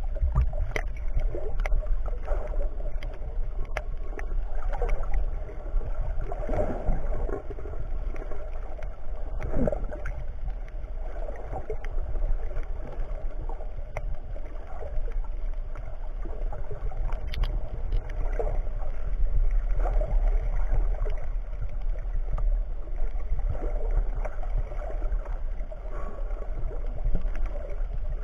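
Aquarium water circulation running: a steady low hum under gurgling, splashing water, with scattered small clicks.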